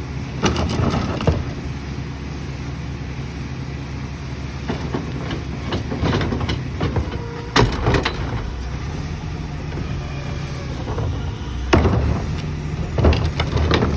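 Rear-loader garbage truck's engine running steadily, with several sharp metal bangs and clanks scattered through.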